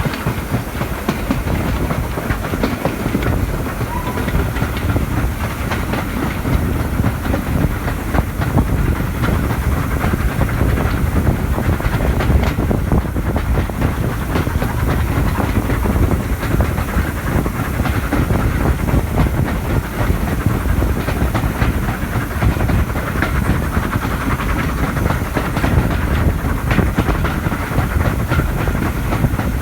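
Steam-hauled train running along the line behind the Ivatt Class 2 steam locomotive: a steady rumble of carriage wheels on the rails.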